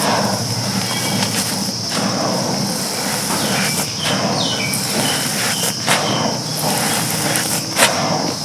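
Dry, brittle chunks of charcoal-like material being crumbled and crushed: continuous gritty crunching with sharper cracks at the start and again near the end.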